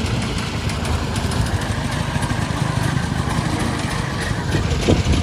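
A vehicle engine idling close by with a steady, pulsing low rumble that gets a little louder near the end.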